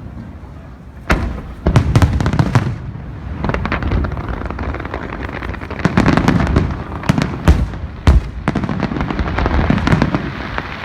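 Fireworks display: aerial shells bursting in a rapid series of sharp bangs, bunched in clusters from about a second in, with a dense rumble between them.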